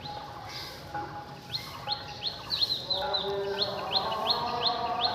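A bird chirping over and over, short rising chirps about three a second. A steady, lower layered sound joins about three seconds in.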